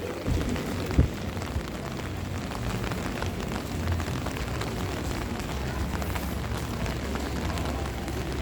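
Heavy rain falling in a strong wind, a steady rushing noise with low rumbling, and a single sharp knock about a second in.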